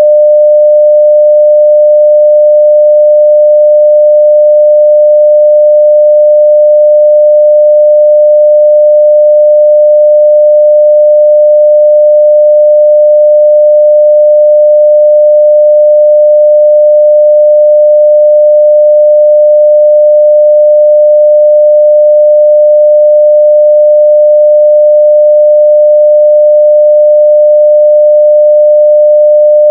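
A continuous, steady 600 Hz sine-wave test tone at full level, one pure pitch with no change.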